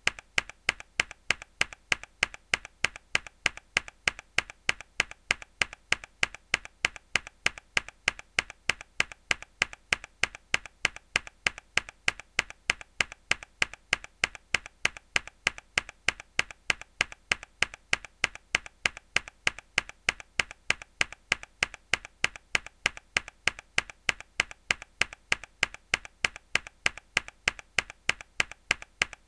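Mechanical keyboard key pressed hard over and over, giving sharp, evenly spaced clacks at a quick steady pace of a few per second.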